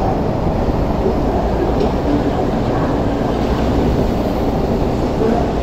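MTR East Rail Line SP1900 (IKK-train) electric multiple unit pulling out of the station and moving away. Its wheels on the rails give a steady, loud rumble.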